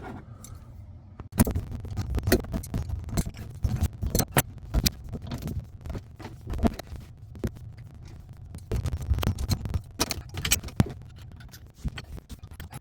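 Irregular clicks, taps and scrapes of plumbing fittings being handled: a fitting is taken off under the sink and a small 3/8-inch adapter is fitted on.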